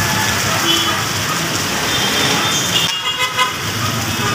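Busy road traffic running steadily, with short car-horn toots: a brief one about two seconds in and a few quick beeps about three seconds in.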